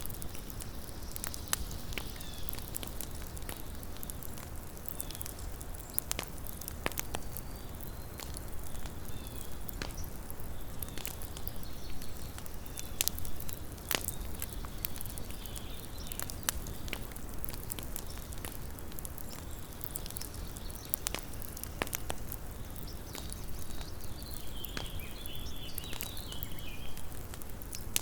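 Small wood campfire crackling: irregular sharp snaps and pops over a steady low hiss of burning.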